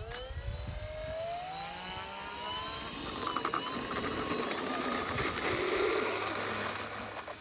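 Electric RC model Cessna 182's brushless motor and propeller throttling up for takeoff: a whine that rises steeply in pitch over about two seconds, then holds steady at full power. It grows fainter near the end.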